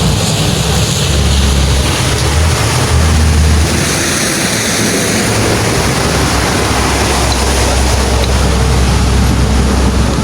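Heavy truck diesel engine running steadily, with a constant hiss over it.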